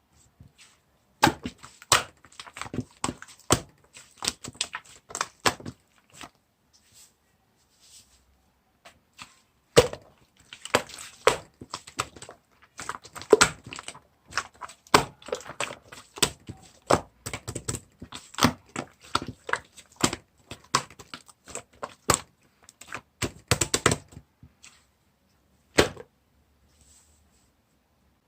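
Chocolate ice cream slime being squished and pressed by hand, giving rapid runs of sticky clicks and crackles. The clicking pauses for a few seconds about six seconds in, stops about three-quarters of the way through, and is followed by one lone click.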